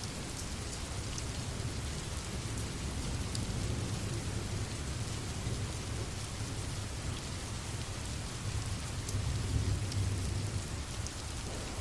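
Steady rain with a low rumble of thunder underneath, swelling briefly about nine to ten seconds in, and scattered drops ticking.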